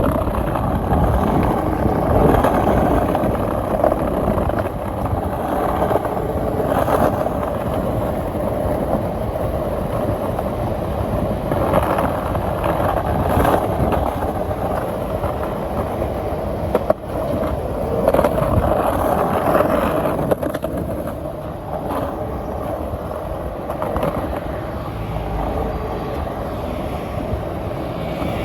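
Skateboard wheels rolling steadily over pavement, with a few sharp clicks along the way.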